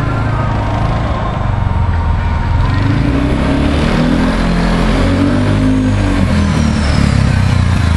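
Kawasaki Prairie 360 ATV's single-cylinder carbureted engine running on a ride, its pitch rising as it accelerates from about three seconds in and falling back as it eases off near the end.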